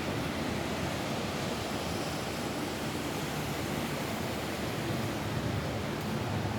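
Steady rain falling on a roof: an even hiss with a low rumble beneath, with no distinct drops or music.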